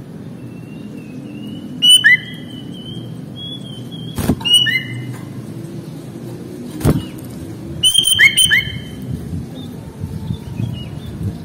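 Sooty-headed bulbul (kutilang) singing: short, loud whistled phrases about two, four and eight seconds in, joined by a thinner held whistle. Two sharp knocks come at about four and seven seconds, over a low background rumble.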